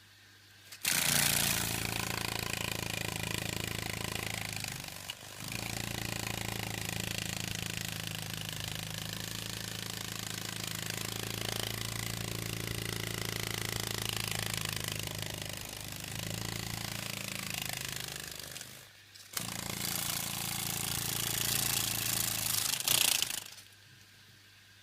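A large beetle buzzing its wings in flight, a steady low drone like a small helicopter, in three stretches broken by two short pauses.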